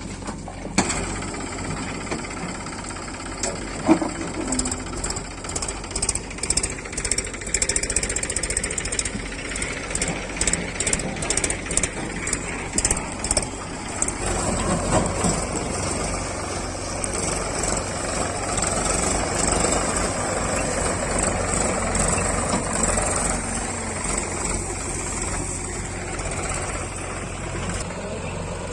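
Diesel engine of heavy working machinery running steadily, its sound growing fuller partway through. A run of sharp knocks and clanks is heard from early on until about halfway.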